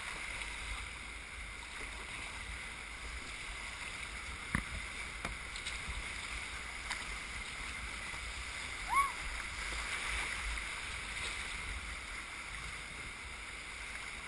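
Steady rush of whitewater in a river rapid, with a few light knocks and a brief high squeak about nine seconds in.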